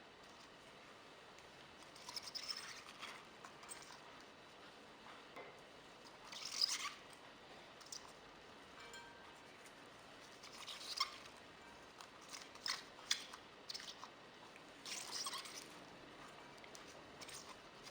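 Ingredients being tipped into a bowl of shredded chicken: a handful of short, quiet rustling, crunchy spills a few seconds apart, with a few light clicks in between.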